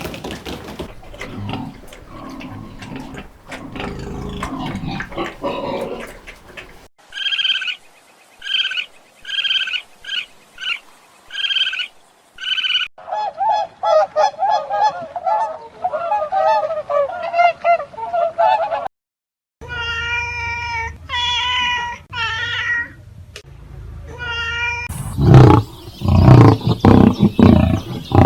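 A run of animal calls from several unrelated stretches. First scattered knocks and rustling, then short calls repeated about once a second, then fast dense chattering, then a few higher drawn-out cries, and near the end loud low rasping growls.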